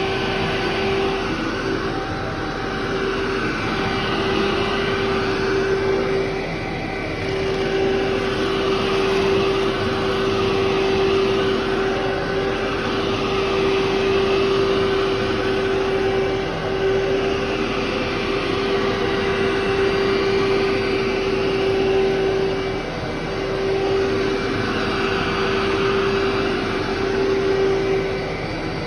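Vacuum cleaner running over carpet, its motor holding a steady hum. The sound swells and fades every two to three seconds with the push-and-pull strokes.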